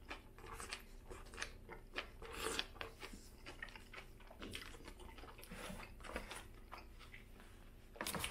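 A person chewing a bite of a Burger King Whopper close to the microphone: soft, irregular crunches and mouth clicks. A louder rustle comes near the end.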